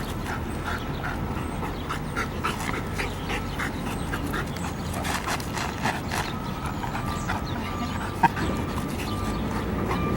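A dog making short whines and squeaks in scattered bursts, with sniffing and movement sounds. About two-thirds of the way in, an even, pulsing high beep starts up.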